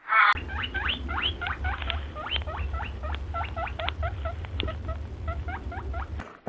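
A small animal squeaking: a rapid run of short, rising chirps, about five a second, over a steady low rumble.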